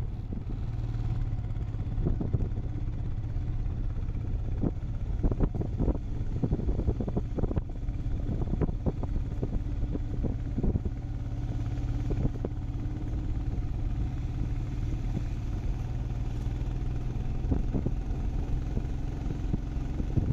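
Motorcycle engine running at a steady speed while riding, with frequent short knocks and rattles over it.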